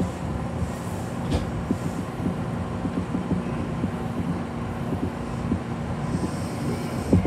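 Kintetsu commuter train running slowly as it pulls away from a station, heard from inside the cab: a steady rumble and hum with scattered light clicks and knocks from the wheels on the track, and a louder knock near the end.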